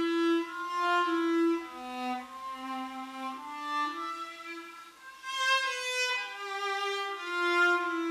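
Violin played with a light plastic practice mute fitted on its bridge, the mute cutting the instrument's volume: a slow phrase of held notes with a brief break about five seconds in.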